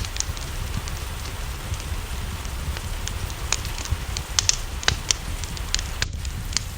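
Steady rain with a wood fire crackling over it: irregular sharp pops and snaps, a few of them louder, over a constant hiss and low rumble.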